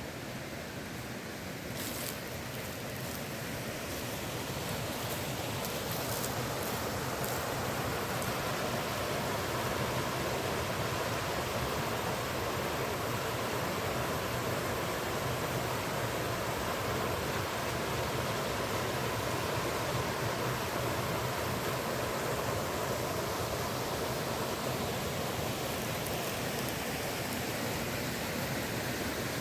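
Steady rushing of flowing creek water, growing a little louder over the first few seconds, with a few faint clicks in the first several seconds.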